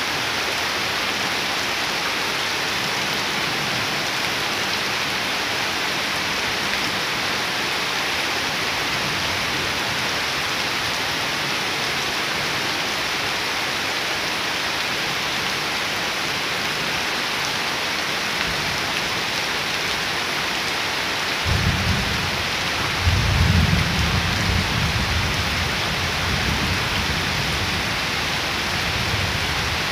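Steady heavy rain pouring onto waterlogged ground and leaves, an even hiss throughout. About two-thirds of the way through, a low rumble rises and fades over several seconds.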